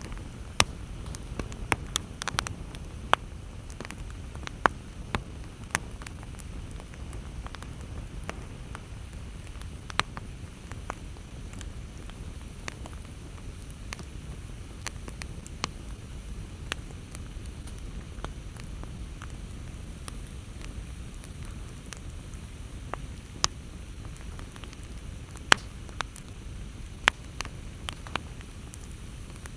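Campfire burning with a steady low rumble and irregular sharp crackles and pops from the burning wood, busier at the start and near the end.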